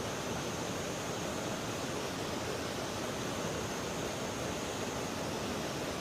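Steady rushing of river water, an even hiss with no changes.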